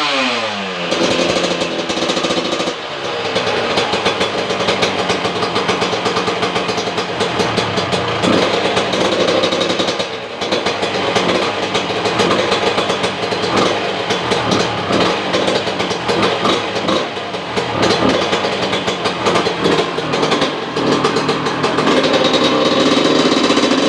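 Two-stroke Kawasaki Ninja 150 'kebo' engine revved hard again and again with a crisp, dry, crackling exhaust note. The revs fall away just after the start, then surge and drop repeatedly.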